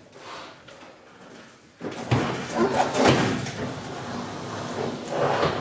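A clothes dryer's metal cabinet being shoved and dragged into position: scraping and knocking that starts suddenly about two seconds in, with some squeaking as it slides.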